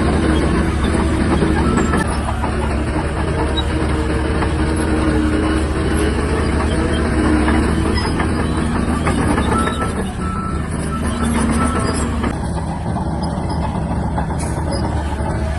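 Shantui DH17-C3 bulldozer's diesel engine running steadily under load.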